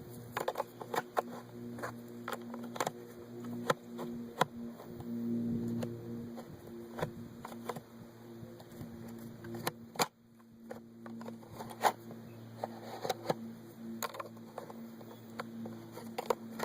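Irregular clicks and knocks of 12-gauge birdshot shells being pressed into an SGM Tactical Saiga-12 box magazine, over a steady low hum.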